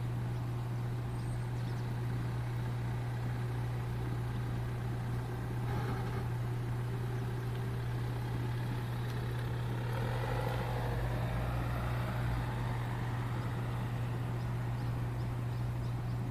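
A steady low machine hum, with something passing or changing pitch about ten seconds in.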